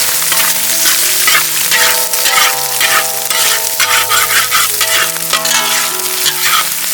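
Food frying and sizzling in a pan while a spatula stirs it, scraping against the pan in repeated strokes.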